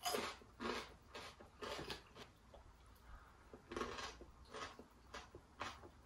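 Close-up crunchy chewing of crisp glazed fried chicken: short crackly bites about every half second, with a pause of about a second and a half in the middle.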